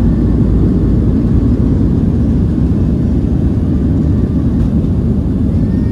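Steady loud rumble of a Boeing 737-700's CFM56-7B jet engines and rushing airflow, heard from inside the passenger cabin during the departure, with most of the sound deep and low.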